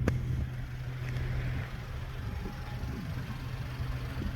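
A 2015 BMW 335's straight-six engine idling steadily, with a small click right at the start. It is still warming up from a cold start, and it runs smoothly with no knocks or odd noises.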